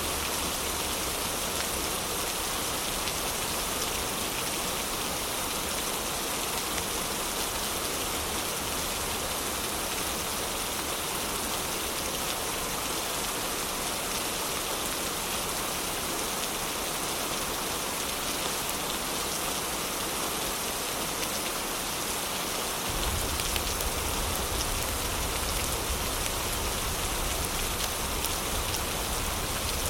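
Heavy rain falling steadily, an even hiss of many drops. About two-thirds of the way through, a low rumble joins underneath and stays.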